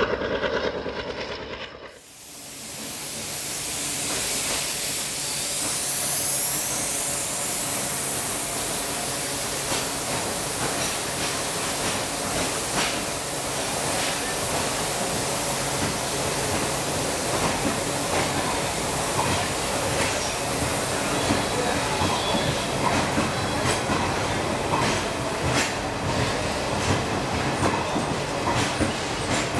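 Diesel-hauled passenger train rolling past, starting after a cut about two seconds in: a steady rumble and hiss of the coaches, with clicks of the wheels over rail joints that come more and more often toward the end.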